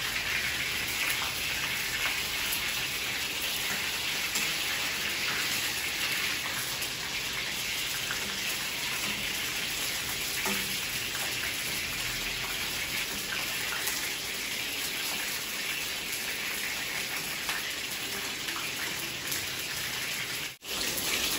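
Brinjal (eggplant) slices sizzling in hot oil in a kadai, a steady sizzle with small crackles throughout and a brief break near the end.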